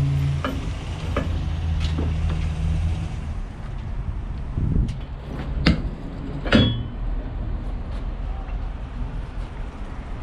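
A vehicle engine running that stops about three seconds in, followed by a few sharp knocks and clicks.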